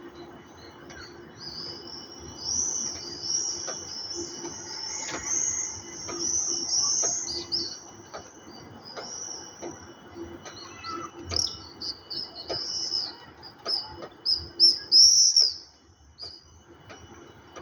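Many birds chirping at once in a dense chorus of quick, high chirps, loudest about fifteen seconds in and thinning out near the end, over a faint steady low hum.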